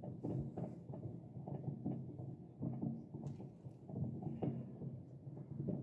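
Distant New Year fireworks: irregular muffled bangs and pops over a low rumble.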